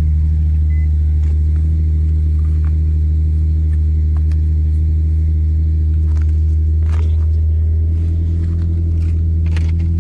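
Infiniti G37 sedan's V6 engine idling with a steady low rumble, a few faint clicks over it.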